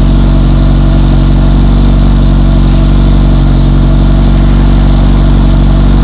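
Turbocharged car engine with a built block idling steadily after a cold start.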